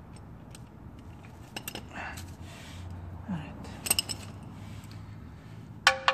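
Scattered light metallic clicks and clinks of hand tools and parts being handled, with a few louder clanks about two and four seconds in.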